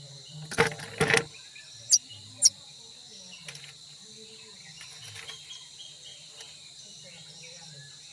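Oriental magpie-robin giving two short, sharp high calls about half a second apart, over a steady high insect drone. Two broad noisy bursts come just before the calls.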